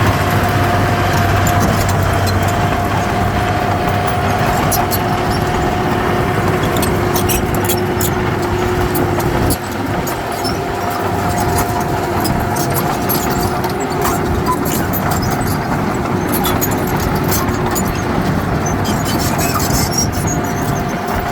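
Heavy diesel earthmoving machinery running steadily, with a steady high whine over the engine and scattered sharp clicks and clanks. The sound eases off slightly about halfway through.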